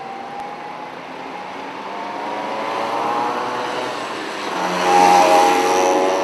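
An engine approaching, its pitch rising slightly as it grows louder, loudest about five seconds in.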